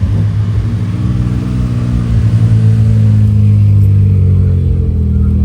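Car engine running under light acceleration, its pitch rising gently over the first couple of seconds and then holding steady.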